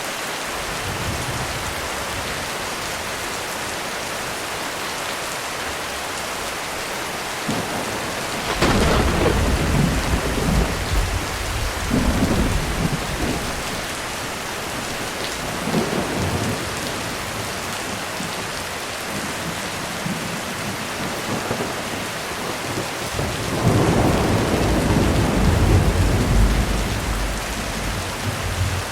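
Heavy rain falling on a roof as a steady hiss, with thunder: a sharp peal about eight seconds in that rolls on in rumbles for several seconds, and another long, loud rumble near the end.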